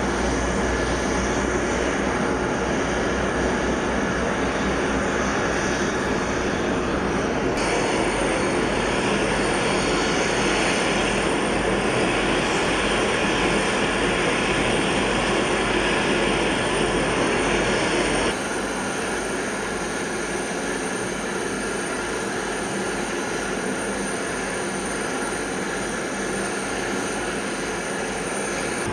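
Steady jet aircraft engine noise, cutting abruptly to a different shot about 7 seconds in and again about 18 seconds in, after which it is slightly quieter.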